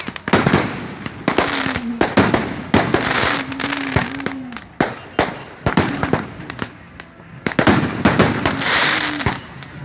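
Fireworks going off in quick succession: repeated sharp bangs with bursts of crackling, thickest from about one to four seconds in and again near the end.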